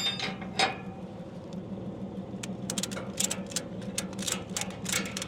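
Ratchet strap being cranked tight: a few clicks, then from about halfway in a quick run of ratchet clicks several a second. A steady engine hum runs underneath.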